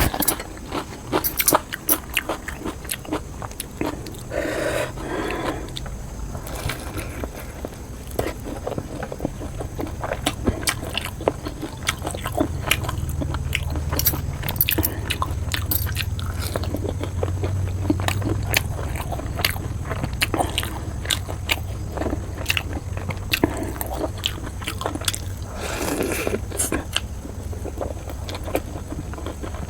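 Close-miked mukbang eating of spicy noodles and fried momos: repeated bites and chewing with scraping, made up of many small sharp clicks. A low rumble sits underneath through the middle part.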